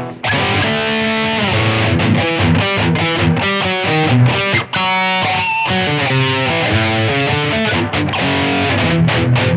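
Heavily distorted electric guitar riff played through a high-gain Mesa Rectifier amp model on a digital guitar modeler: fast-changing chords and notes with brief stops.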